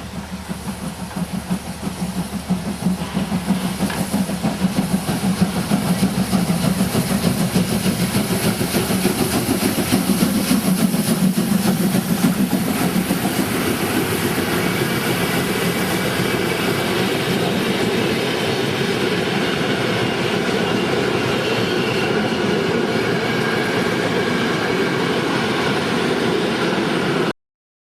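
Train running by with a fast, even beat, growing louder over the first few seconds and then holding steady. The sound cuts off abruptly near the end.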